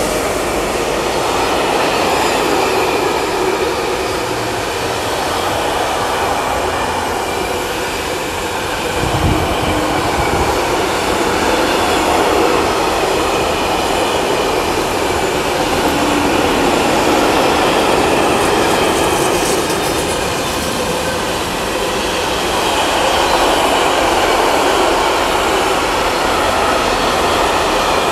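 Freight train of container wagons rolling past: a steady rush and rumble of wagon wheels running on the rails, holding on without a break.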